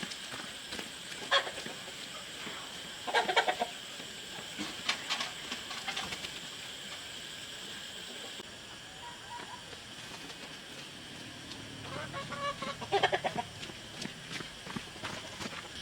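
A steady high insect-like drone, with two short bursts of a pitched animal call, about three seconds in and near the end, and a few light knocks.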